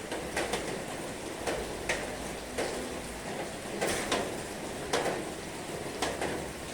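Heavy rain: a steady hiss of rainfall with irregular, sharper drops or drips knocking on a hard surface, about one or two a second.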